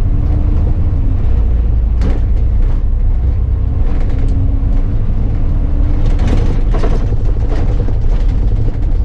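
Bus on the move, its engine and drivetrain giving a steady deep rumble with a faint whine that fades in and out, and a few short rattles about two seconds in and again around six to seven seconds in.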